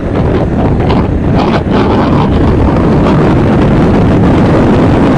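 Loud wind buffeting on the microphone of a moving motorcycle, a steady rumble with the ride's vehicle noise underneath.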